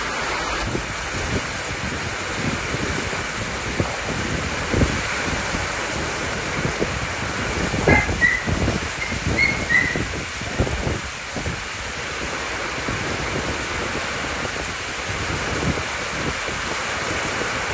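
Heavy storm rain pouring down and splashing on flooded pavement as a steady hiss, with gusty wind buffeting in low thumps, strongest about halfway through. A few faint, short high squeaks come in the middle.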